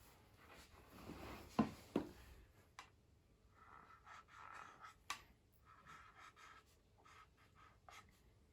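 Faint scratching of a marker pen writing on a whiteboard, with a few light taps and clicks.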